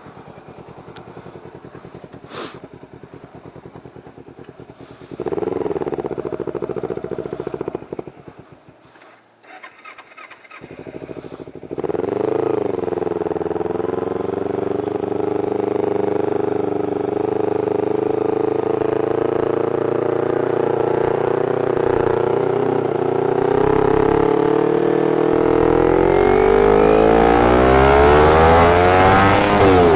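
Motorcycle engine idling, then revved for a few seconds about five seconds in. After a short drop it pulls away and runs steadily under load, its pitch climbing as it accelerates near the end.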